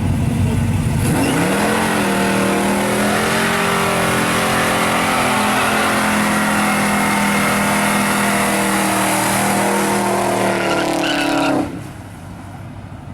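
1976 Plymouth Fury's 511-cubic-inch Mopar big-block V8 with tunnel ram intake, revving up about a second in and held at high revs during a burnout, with tyres squealing. Near the end the revs cut off suddenly and the sound falls away.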